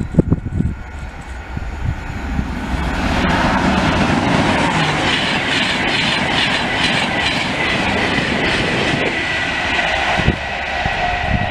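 A Virgin Trains East Coast InterCity 225 express of Class 91 locomotive and Mark 4 coaches passing close at speed. Wind buffets the microphone at first. The rush of wheel and air noise then builds over a couple of seconds and holds steady with wheel clatter as the coaches go by. It changes abruptly about ten seconds in.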